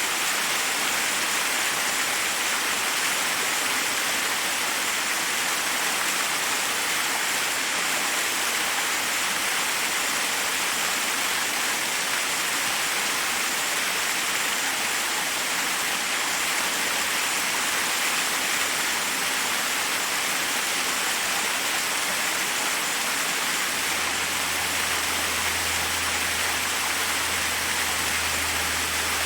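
Waterfall's water rushing over rocks, a steady hiss-like rush. A faint low rumble joins near the end.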